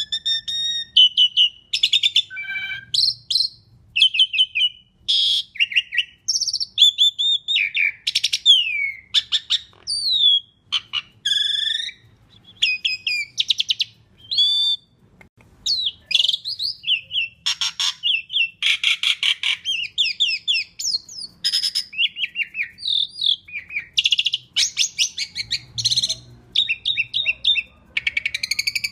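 Asian pied starling singing a long, varied song of loud whistles, gliding notes and fast buzzy chattering trills, with only brief pauses.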